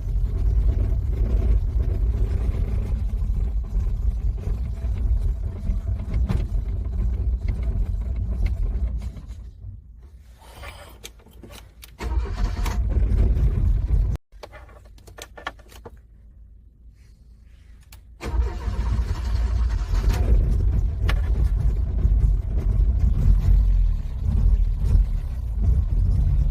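Car engine cranking in the freezing cold and struggling to start. It comes in three spells, with a sharp drop between each: one long stretch, then a brief one, then another long stretch.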